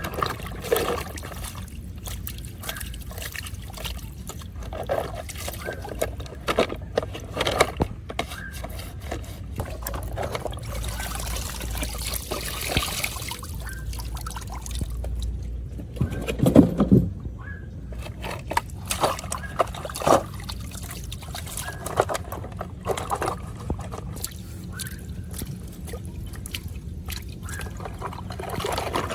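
Water pouring and trickling, with many short knocks and clicks of objects being handled, loudest about two-thirds of the way through.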